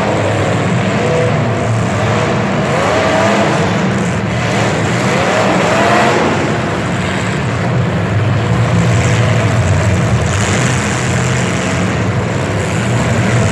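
Motor vehicle engines running loudly, with a couple of short rising revs about three and six seconds in.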